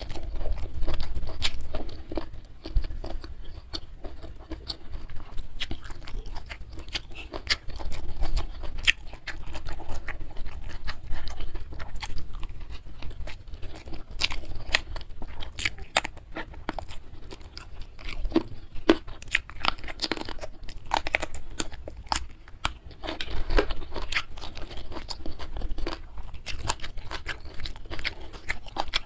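Chewing and crunching of rice, spicy beef sambal and raw vegetables eaten by hand, heard close up, with many irregular sharp wet mouth clicks.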